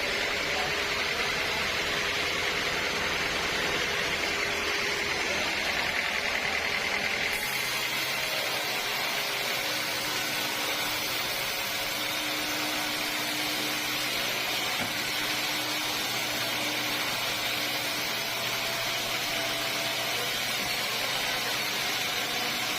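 Sawmill machinery running with a steady noise; about seven seconds in, its sound changes, losing its low rumble.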